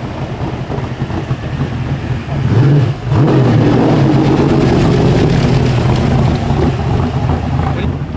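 Car engine running, then pulled hard to high revs about two and a half seconds in, with a brief dip just after, held loud for several seconds and easing off near the end.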